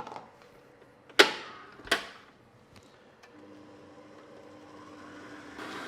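A few sharp knocks, the loudest about a second in. Then, about three seconds in, a stand mixer's motor starts with a steady hum that grows louder toward the end as it mixes flour and lemon juice into the cake batter.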